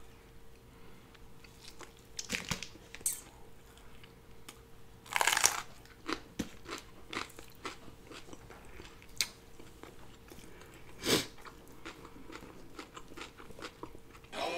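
Close-miked chewing of a mouthful of double cheeseburger: soft wet mouth sounds and small clicks, with a few louder crunchy bursts spread through.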